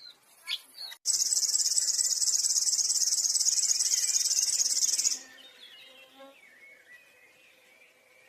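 A loud, high-pitched, rapid buzzing trill from an animal, lasting about four seconds. It starts abruptly about a second in and cuts off suddenly, leaving faint scattered chirps.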